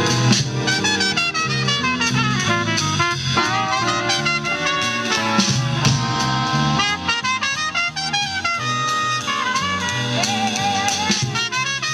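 A big band jazz orchestra plays an instrumental break with no vocal: a busy, moving horn line over a steady bass and drum kit.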